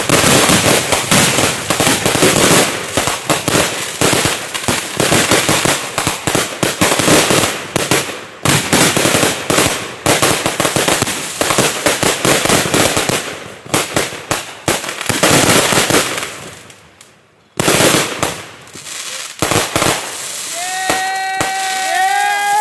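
Backyard consumer fireworks finale: a dense barrage of rapid bangs and crackling that goes on for about sixteen seconds. It dies away, and a few last bangs follow.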